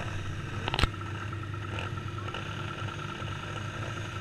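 Small dirt bike engine running steadily at a low, even pitch, with one sharp click a little under a second in.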